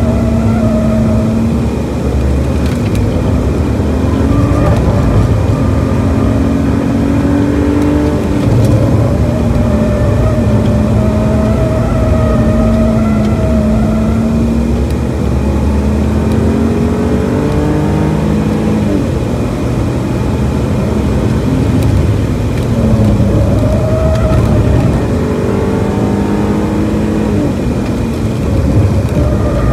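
BMW E46 330i's 3.0-litre inline-six at track pace, heard from inside the cabin: its pitch climbs in several pulls as it accelerates out of corners and drops back when lifting and braking, over steady road and wind noise.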